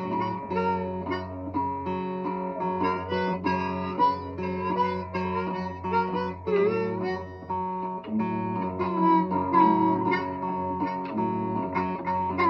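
A blues jam: acoustic guitar picked over harmonica, with long, low held notes underneath.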